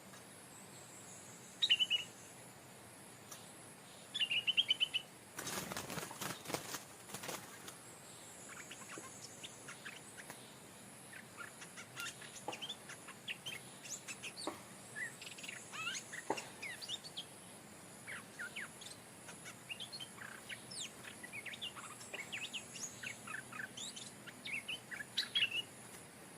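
Stripe-throated bulbul calling: two short, loud trilled calls, a burst of rustling a few seconds in, then many quick scattered chirps.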